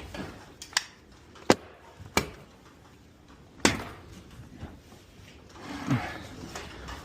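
Sharp, separate knocks and clacks, like pieces of wood or tools being handled and set down, four of them over the first few seconds. A short sound falling in pitch follows about six seconds in.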